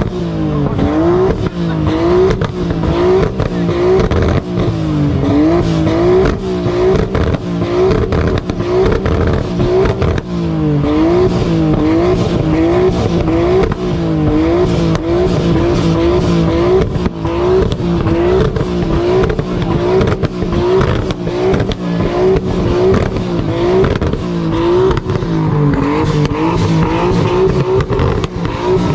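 A car engine revved over and over, its pitch dipping and climbing again about once a second, with a steady crackle of exhaust pops.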